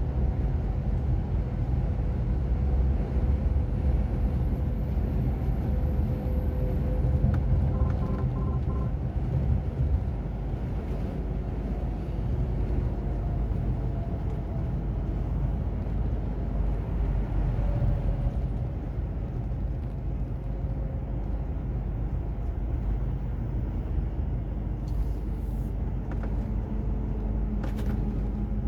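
Heavy truck driving: its diesel engine drones steadily under a constant low road rumble, the engine's tone shifting slightly in pitch.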